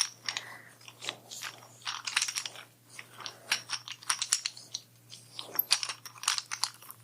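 Close-miked clicking and crackling, many small sharp clicks coming in quick irregular clusters.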